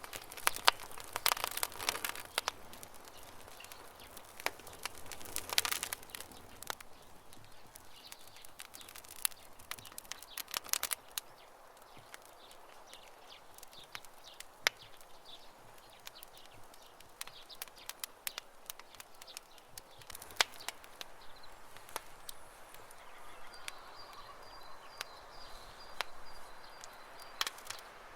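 Wood campfire crackling, with irregular sharp pops that come thickest in the first couple of seconds and again around six and eleven seconds in. Birds chirp faintly behind it, with a short run of high, quick notes near the end.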